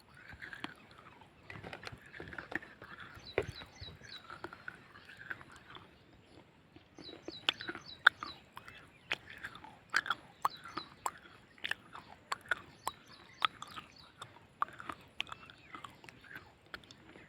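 A person biting and chewing hard, brittle white clay close to the microphone: softer grinding chews at first, then sharp crunches about once a second from about seven seconds in.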